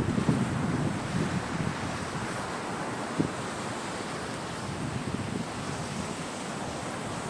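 Sea waves washing onto the shore, a steady wash of surf that swells louder in the first second, with wind buffeting the microphone. A single brief knock about three seconds in.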